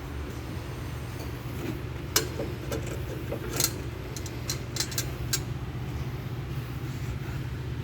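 A steady low mechanical hum with a few sharp metallic clicks and taps scattered through the middle, as of tools being handled while working on a truck's starter.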